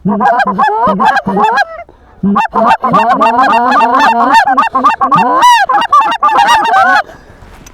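Loud, rapid Canada goose honks and clucks, several calls overlapping, with a brief pause about two seconds in and a sudden stop about seven seconds in.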